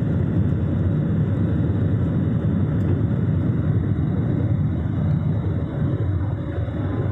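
Airliner jet engines running, a steady low rumble without rises or breaks.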